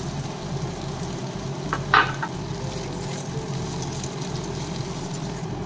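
Boiled potato pieces sizzling in hot ghee with cumin seeds in a non-stick frying pan as they are stirred with a spatula. A brief louder touch of the spatula on the pan about two seconds in.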